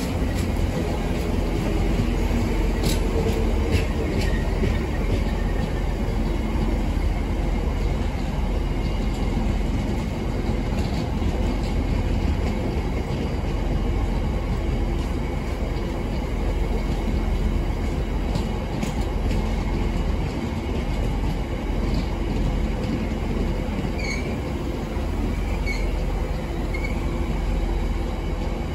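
Freight train of MJA bogie box wagons rolling past: a steady rumble of steel wheels on rail, with a few sharp clicks over the rail joints early on and a few brief high wheel squeals near the end.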